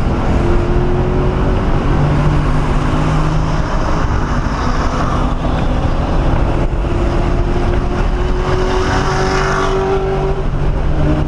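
1997 SVT Cobra Mustang's 4.6-litre DOHC V8 heard from inside the cabin at track speed, with road and wind noise. The engine note climbs slowly under load for several seconds, then drops near the end.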